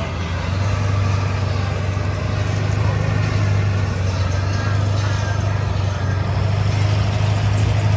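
A mud-bog truck's engine running steadily with a deep, even hum, a little louder about a second in.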